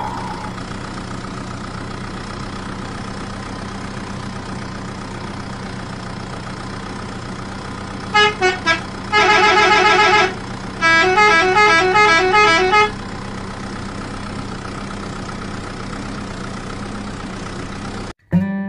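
Steady vehicle engine drone, with a horn sounding about eight seconds in: three short beeps, a long warbling honk, then a quick two-note horn tune alternating between two pitches. All of it stops suddenly just before the end.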